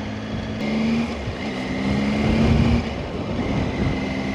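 Motorcycle engine running while riding along, its pitch stepping up and down with the throttle, over a steady rush of wind and road noise.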